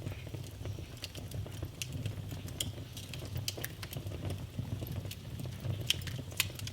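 Wood fire burning in a fireplace: a steady low rumble of flames with frequent sharp crackles and pops, a couple of louder pops near the end.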